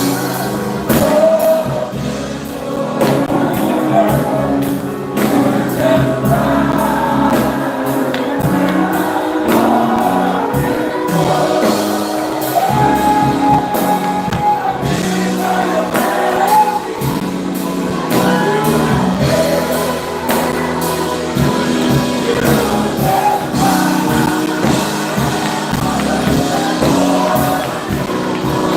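Live gospel singing with a band: voices carrying a melody over steady bass notes and a drum beat.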